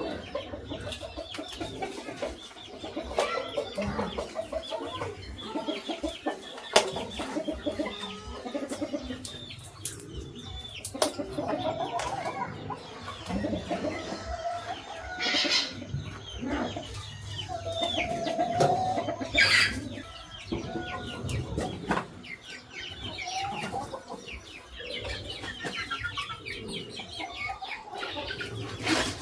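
Chickens clucking on and off, with scattered sharp clicks and knocks.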